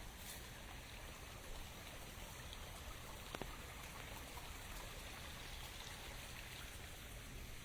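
Steady rain falling, with a few sharp drop ticks standing out, one clearest about three and a half seconds in.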